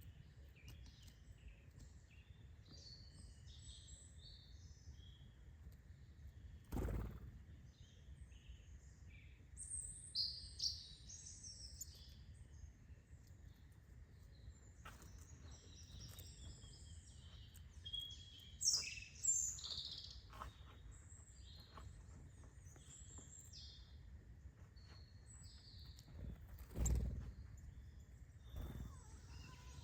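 Wild birds chirping and calling in short, scattered high notes, with a few louder bursts of calls. A steady low rumble runs underneath, and there are two dull knocks, one about a quarter of the way in and one near the end.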